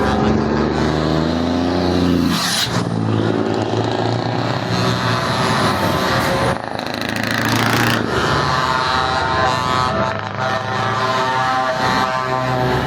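Heavy trucks' diesel engines running, with two swells about two and seven seconds in as vehicles move past.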